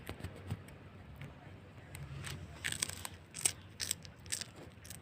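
A cat chewing a crunchy snack: irregular, crisp crunches, coming thicker in the second half.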